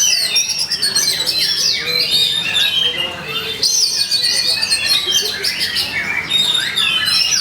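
Oriental magpie-robin (kacer) singing a fast, unbroken stream of varied whistles, chirps and trills, with a short lull about three seconds in. This is the bird's agitated fighting song ('tarung'), the kind played to provoke a caged kacer into singing.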